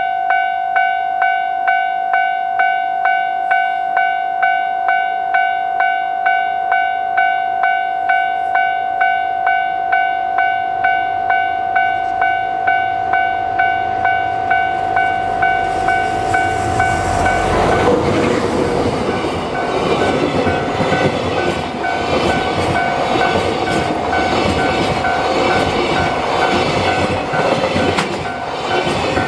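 A railway level-crossing alarm rings steadily at about two strokes a second. About seventeen seconds in, a DF200 diesel-electric freight locomotive passes and its noise takes over. It is followed by the rolling of loaded container wagons, their wheels clattering over the rail joints.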